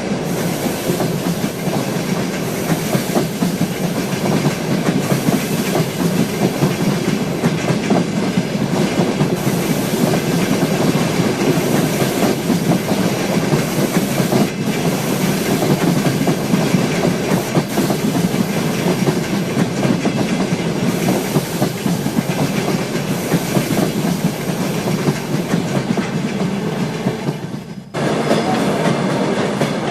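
A train passing close by, its wheels clattering over the rails in a loud, steady rush. The sound drops out briefly near the end and then comes back.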